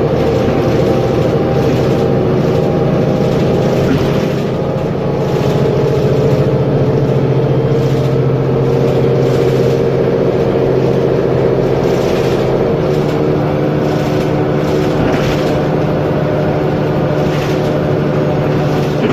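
Mercedes-Benz Conecto G articulated bus's OM457LA inline-six turbo-diesel engine running steadily, its pitch drifting only slightly, with a brief dip in level about four seconds in.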